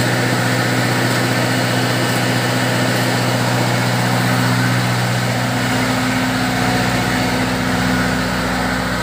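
Engine-driven fish feed pellet machine running steadily under load, a constant engine drone whose tone shifts slightly about five seconds in.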